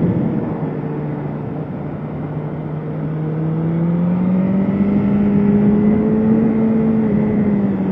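BMW S1000RR inline-four engine heard from on the bike at part throttle. Its revs drop briefly, then rise slowly and steadily before easing off near the end, over steady rushing noise.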